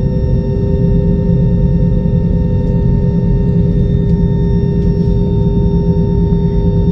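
Airbus A320's CFM56 jet engines heard from inside the cabin while taxiing: a steady engine whine made of several held tones over a continuous low rumble of cabin noise.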